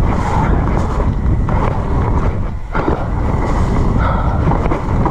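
Loud, unsteady wind buffeting on a ride-mounted camera microphone as a mountain bike descends, mixed with the bike rattling over the rough, wet trail.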